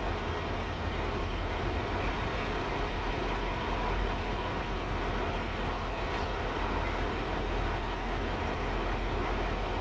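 Covered hopper cars of a freight train rolling across a street grade crossing as the train backs along a spur: a steady, even rumble of steel wheels on the rails.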